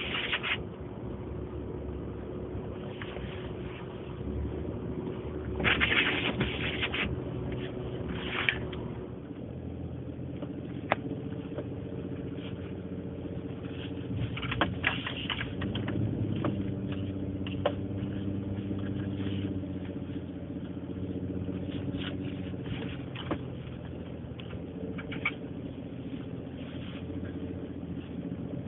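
Pickup truck's engine running, heard from inside the cab while driving through deep snow, with its pitch shifting about halfway through. Several short bursts of scraping hiss, the loudest about six seconds in and around fifteen seconds, and scattered light clicks.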